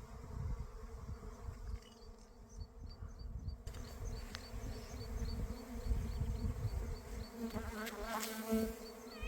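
A swarm of honey bees in flight, thousands of bees making a steady, even buzzing hum. About 8 seconds in, a short pitched call rises over the buzzing.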